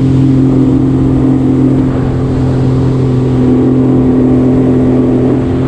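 Jet ski engine running at a steady cruise, an even drone with no change in speed.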